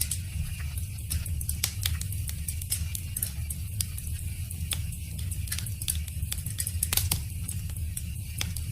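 Wood fire crackling, with many small sharp pops over a steady low rumble; one louder pop about seven seconds in.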